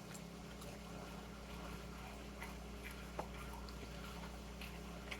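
Faint eating sounds: quiet chewing with scattered small mouth clicks, one a little louder about three seconds in, over a steady low hum.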